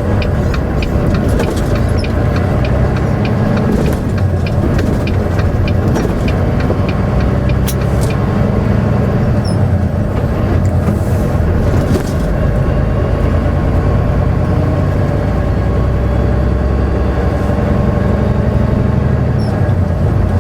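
Steady drone of a semi truck's diesel engine and road noise inside the cab while cruising on the highway. A light, regular ticking runs through roughly the first half.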